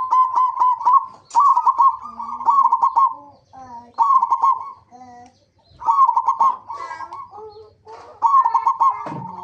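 Zebra doves (perkutut) cooing: five phrases of rapid, repeated cooing notes, each about a second or two long, with short pauses between them.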